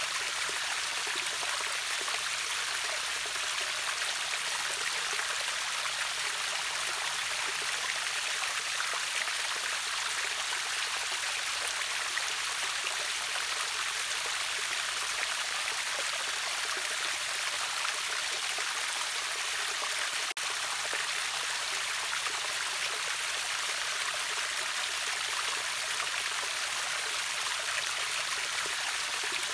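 River water pouring over a waterfall, a steady, even splashing rush that is mostly high hiss with little deep rumble.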